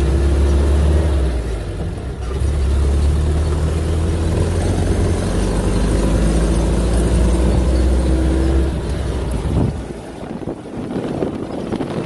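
Car engine running steadily while driving up a rough dirt track, with a brief dip about two seconds in. Near the end the engine note drops away, leaving a rattling, crunching noise from the vehicle on the rough ground.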